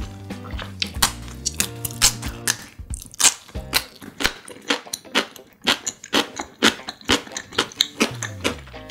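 Close-miked crunching and chewing of a slice of pickled radish, a rapid run of crisp crackles. A low humming tone sounds under it in the first couple of seconds.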